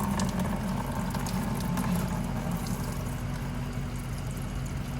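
Steady low mechanical hum from a running motor, with faint scattered clicks and taps.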